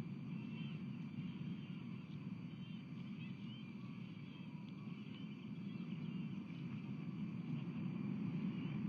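Outdoor ambience picked up by a nest-camera microphone: a steady low rumble, slowly growing louder near the end, with faint, high bird chirps over it.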